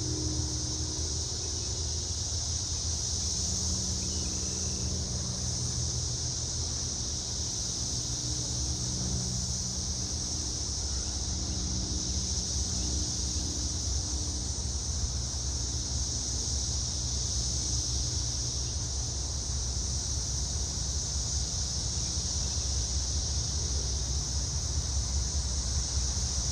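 Steady high-pitched insect chorus of crickets or cicadas, over a low rumble with a faint intermittent hum, growing slightly louder near the end.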